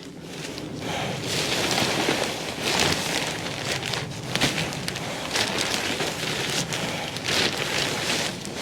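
Gritty scraping and crackling of dry debris, old bird droppings mixed with bits of construction material, being cleared out by hand, with many small clicks and rustles.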